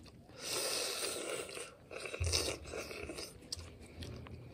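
People chewing and crunching food with their mouths, in two louder noisy stretches about half a second and about two seconds in, with scattered small clicks.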